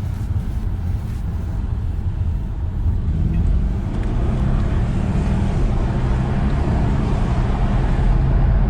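BMW 550i's 4.4-litre twin-turbo N63 V8 driving on the road, a steady engine and road rumble that grows louder about three seconds in as the car picks up speed.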